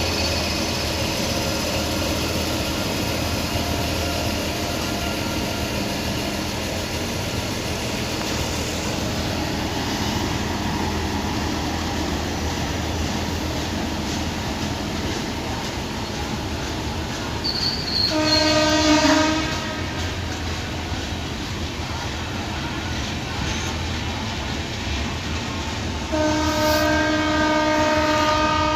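Passenger train hauled by an electric locomotive, running steadily past. A horn sounds twice: a short blast about two-thirds of the way through and a longer one near the end.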